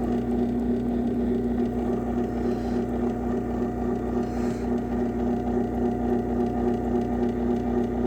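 Craftsman garage door opener motor running steadily as it closes the door, a constant hum with no change in pitch.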